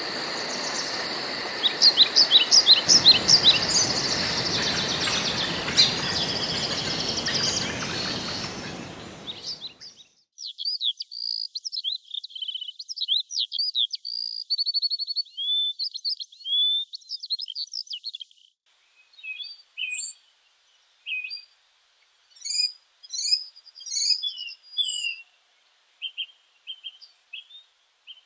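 Several songbirds singing in a forest. For the first third, a steady background hiss and a fast high-pitched pulsing sit under the birds, then fade out. After that only clear, separate song phrases remain, growing sparser toward the end.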